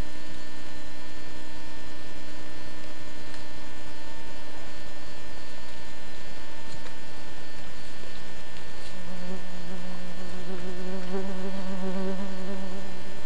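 A steady electrical hum. From about nine seconds in, a wavering, buzzing tone from a flying insect close by joins it for about four seconds.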